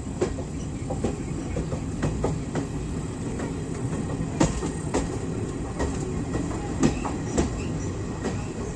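Train running along the rails: a steady low rumble with irregular clicks and knocks from the wheels on the track, two sharper knocks standing out about four and a half and seven seconds in.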